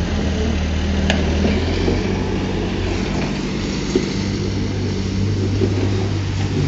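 Diesel engine of heavy earthmoving equipment running steadily, with sharp clicks about a second in and again about four seconds in.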